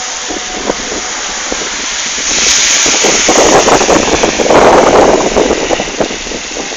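Steady hiss of heavy rain on a wet street. A car passes from about two seconds in, its tyres spraying water in a louder rush that swells and fades again near the end.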